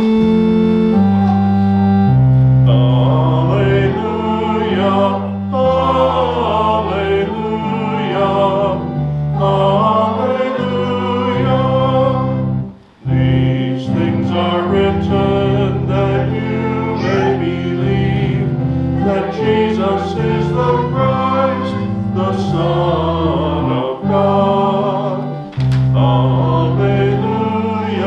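Alleluia verse sung by voices with organ accompaniment: the organ plays held chords alone for about two seconds, then the singing joins, with a brief pause for breath about halfway through.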